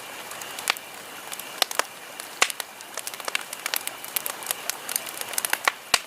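Campfire crackling: wood burning, with irregular sharp pops and snaps a few times a second over a steady hiss.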